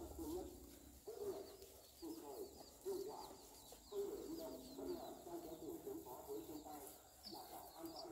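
Birds calling: short, low, wavering calls come one after another, over a steady run of quick, high chirps repeating several times a second.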